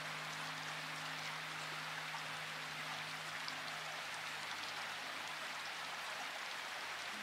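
Steady rain falling, an even hiss of drops. Faint low held tones sit underneath and shift in pitch near the end.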